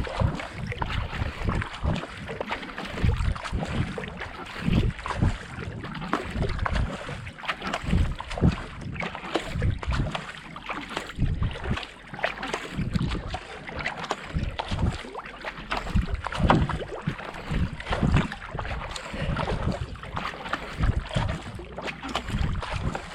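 Kayak paddle strokes at a steady racing pace of about 70–80 strokes a minute: the blades splash in and pull through the water, with rhythmic low thumps and a continuous wash of water. Wind buffets the camera microphone.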